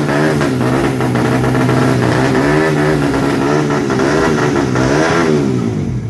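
Tuned 200cc underbone (bebek) drag-bike engine revved in repeated rising and falling blips over a steady engine drone, held at the start line before the launch. The sound eases off about five seconds in.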